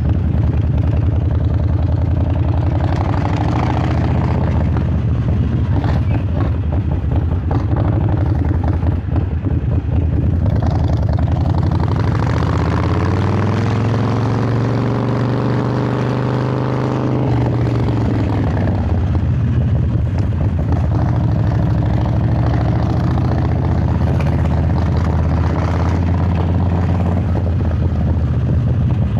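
Harley-Davidson Sportster 1200 Roadster's air-cooled V-twin running through Vance & Hines Hi-Output Grenades 2-into-2 exhaust while riding. The revs rise and fall, with the longest climb in pitch from about twelve seconds in, dropping off about five seconds later.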